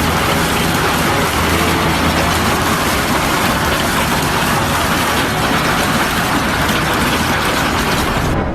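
Loud, steady rushing noise with no clear pitch, cutting off abruptly near the end.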